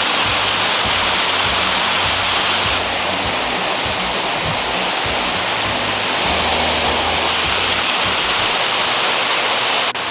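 Waterfall: a loud, steady rush of falling water, with quiet background music underneath. The water sound shifts in level abruptly about three and six seconds in and dips sharply near the end.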